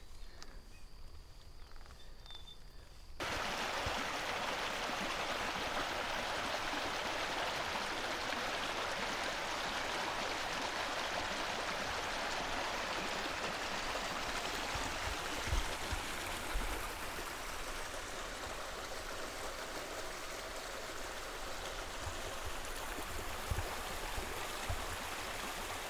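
A steady, even rushing hiss starts abruptly about three seconds in and carries on without a break.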